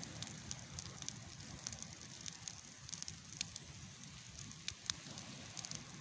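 Campfire burning with a faint low rumble and scattered sharp crackles and pops from the wood.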